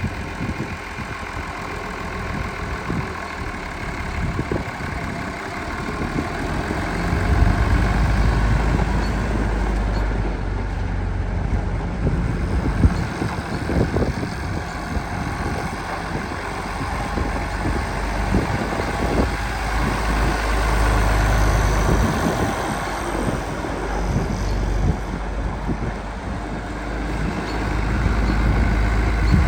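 1973 International Harvester 1066 Turbo tractor's turbocharged six-cylinder diesel engine running steadily, growing louder about a quarter of the way in.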